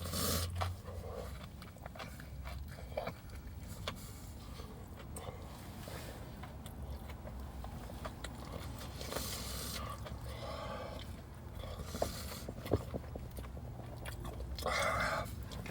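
Quiet chewing and biting of fried chicken, with scattered small mouth clicks and a few short, louder bursts of noise near the middle and end.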